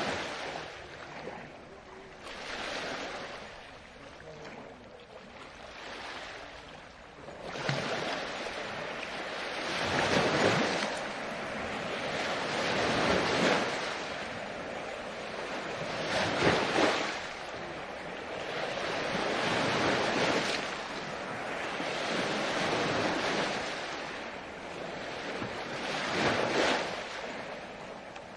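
Ocean waves breaking and washing up the shore, surging every few seconds, with the hiss of water between breaks.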